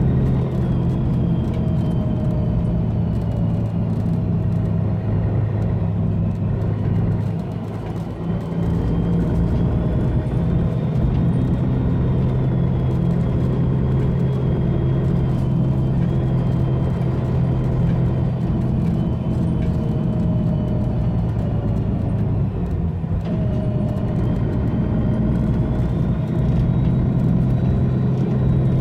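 Mercedes-Benz Citaro bus's OM457hLA straight-six diesel running under way through its ZF Ecolife automatic gearbox, its loud turbo whistle riding high and wavering over the engine drone. The engine note dips briefly about eight seconds in, then picks up again.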